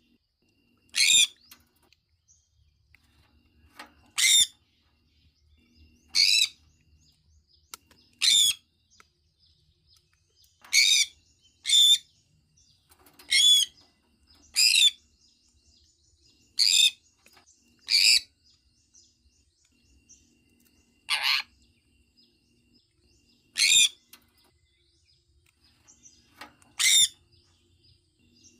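Sun conure calling: about a dozen short, loud chirps, each well under half a second, spaced irregularly one to three seconds apart.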